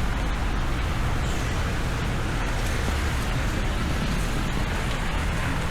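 Steady street traffic noise with a low rumble, with no single event standing out.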